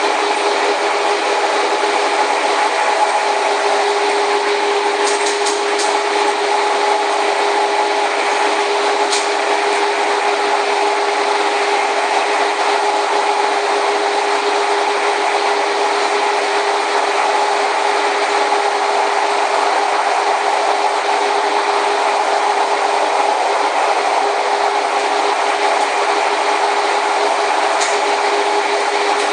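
BART to OAK cable-hauled people-mover train running along its guideway: a steady rushing, rubbing ride noise with a steady hum through it. A few faint ticks rise above it now and then.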